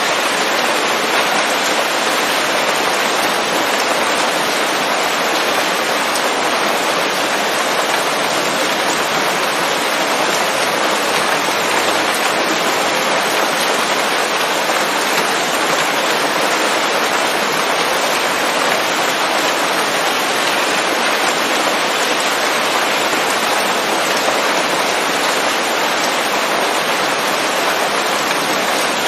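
Steady rain falling on leaves, an even hiss of drops with no thunder or other events.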